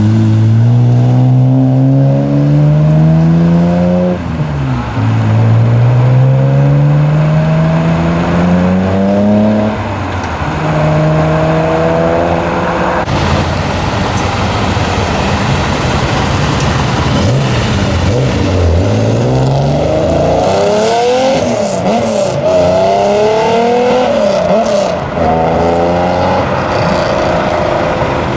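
Modified car engines with loud aftermarket exhausts accelerating hard. The engine note climbs, drops at an upshift about four seconds in, climbs again and shifts near ten seconds. Later another engine revs up and down several times.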